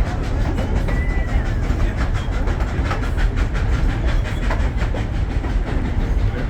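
Durango & Silverton narrow-gauge train rolling along the track: a steady low rumble with rapid clickety-clack of the wheels, and a brief faint squeal about a second in.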